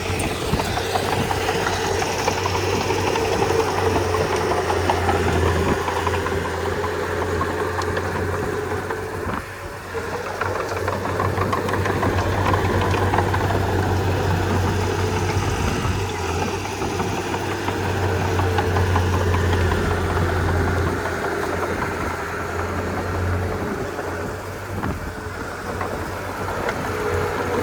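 Komatsu D31P bulldozer's diesel engine running steadily with a deep hum. The level dips briefly about nine seconds in, and the low hum changes again near the end.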